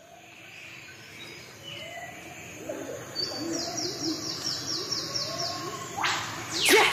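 Nature ambience of several birds singing and chirping, fading in, with a quick trill of repeated high notes in the middle. Near the end a louder sweeping sound rises over the birdsong.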